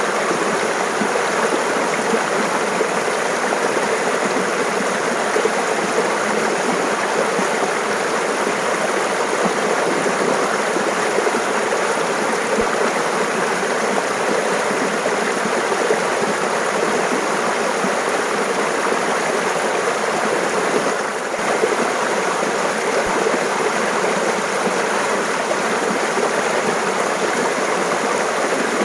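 Mountain stream babbling, a steady even rush of water flowing over rocks, with a brief slight dip about two-thirds of the way in.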